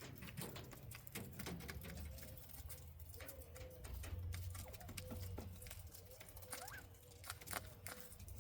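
Small quail scratching and pecking about the aviary floor: many quick, light ticks and scratches, with a few faint, soft calls.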